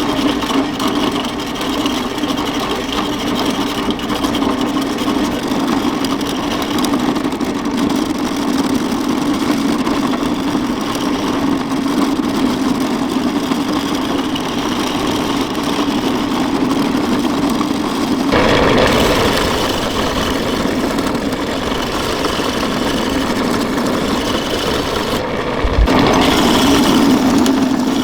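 A motor running steadily with a low hum, growing louder and fuller about two-thirds of the way through and again near the end.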